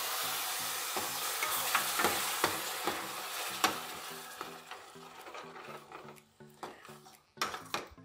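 Tomato paste sizzling as it hits hot oil and fried spice paste in a steel kadai, the sizzle fading over the first few seconds. A steel ladle stirs it in, clicking and scraping against the pan.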